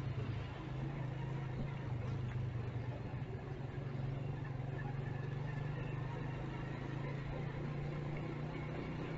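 Motorcycle engine running at a steady low note, with surrounding street traffic noise.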